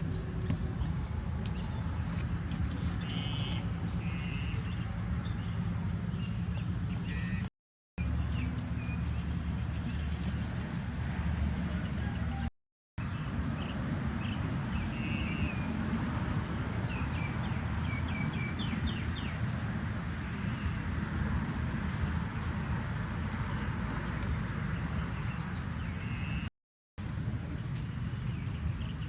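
Outdoor ambience: a steady high insect drone with scattered short bird chirps over a low background rumble. The sound drops out briefly three times.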